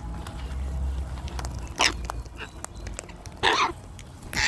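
Cockatoo screeching: three short, harsh, loud calls, about a second and a half apart and then one right after the other near the end.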